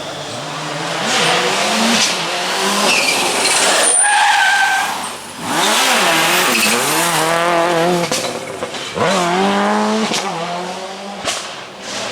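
Historic rally car at full throttle on a special stage, the engine revving up and dropping back through several gear changes.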